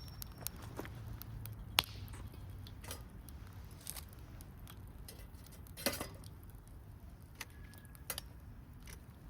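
Wood fire crackling in a small fire pit: irregular sharp pops and snaps over a low steady rumble of the burning, with a louder pop about six seconds in.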